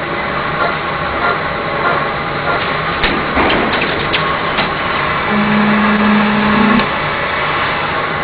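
CNC polygon lathe running in a machine shop, making a steady mechanical clatter. A few sharp clicks come near the middle, and a low steady hum sounds for about a second and a half after that.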